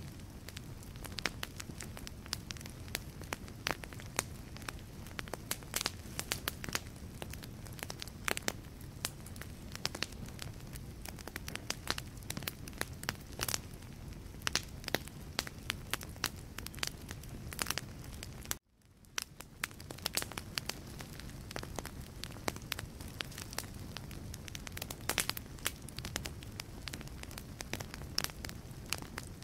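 Wood logs burning in a fireplace, with dense crackling and popping over a steady low rumble of flames. About two-thirds of the way through, the sound cuts out for a moment and then fades back in.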